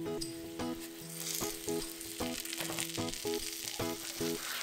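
Cheese-filled dough rolls sizzling as they fry in a nonstick pan, a steady hiss that gets stronger about a second in, over soft background music.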